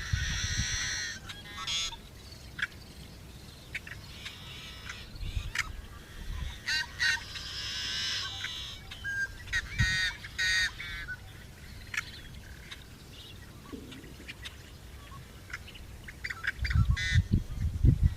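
Birds calling: series of short, harsh calls in clusters. Low rumbles come at the start and grow loudest near the end.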